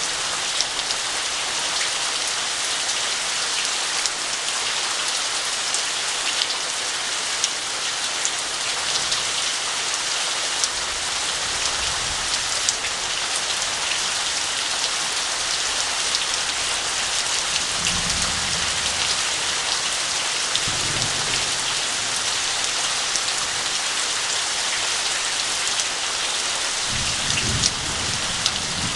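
Heavy rain falling steadily, with low rumbles of thunder several times: one around the middle and more toward the end.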